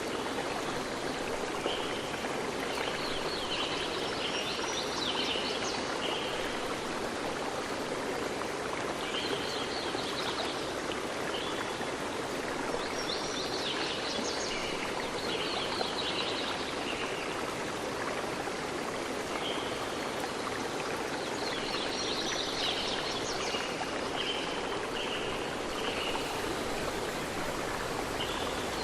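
Stream water running steadily, with birds singing in short, repeated chirpy phrases every few seconds.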